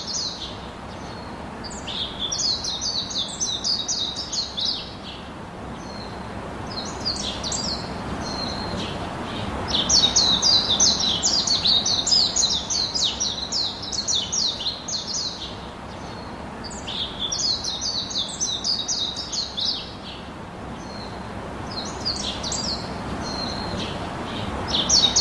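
A songbird singing in bouts of rapid high chirps, each bout lasting a few seconds with short pauses between, over a steady background hiss.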